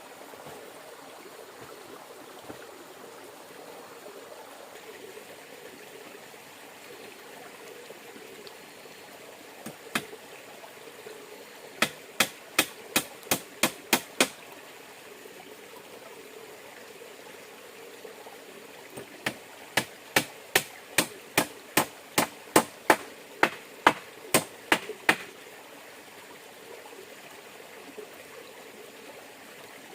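Steady rush of flowing river water, with sharp knocks: a single one about ten seconds in, a quick run of about seven at roughly three a second, then after a short pause a longer run of about fifteen at the same pace.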